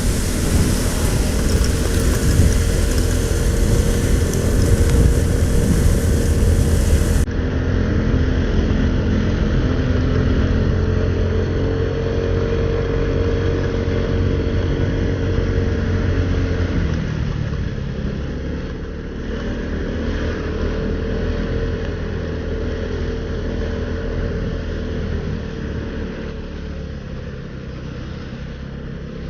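Motorcycle engine running under way with steady wind and road noise as picked up by a helmet-mounted camera. The engine note rises and falls a little, and the whole sound eases off about two-thirds of the way in and again near the end.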